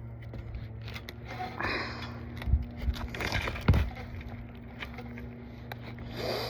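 Scraping and knocking of a roof snake (shingle ripper) being worked under asphalt shingles to get at a roofing nail, with a couple of heavy thumps in the middle, over a steady low hum.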